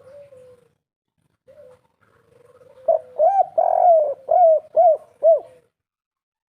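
Spotted dove cooing in its three-note 'kuk 3' style. A few soft coos come first, then about three seconds in a loud phrase of about six arched coo notes, ending abruptly near the end.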